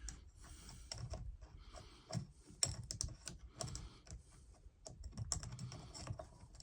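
Light, irregular clicks and taps of a flat file and a depth-gauge tool being handled against a chainsaw chain, as the file is picked up and set in place over the rakers.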